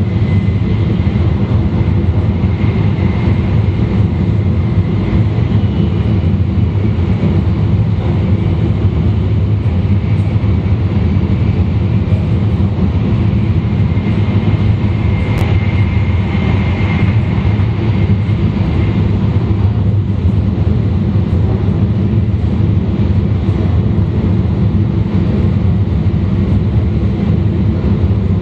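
E2 series Shinkansen train (set N13, Mitsubishi IGBT drive) running steadily, heard from a car's vestibule: a constant deep rumble with a faint high whine over it. There is a single sharp click about halfway through.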